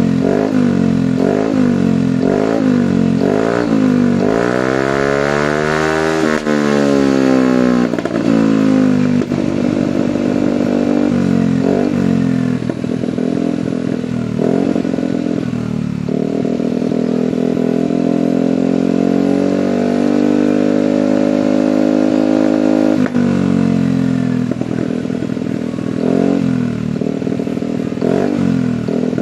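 Yamaha NMAX scooter's single-cylinder engine revving through an aftermarket long oval DOS silencer: quick repeated throttle blips, one long rev that climbs and falls, a held higher rev, then more blips. There is some popping as the revs drop, which is put down to the CO (fuel mixture) not yet being set.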